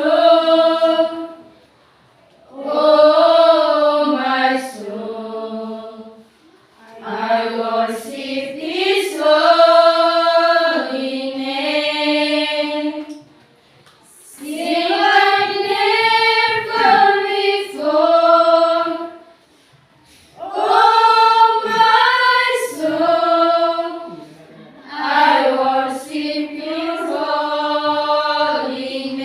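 A group of high-school students singing together without accompaniment, in sung phrases a few seconds long with short breaks for breath between them.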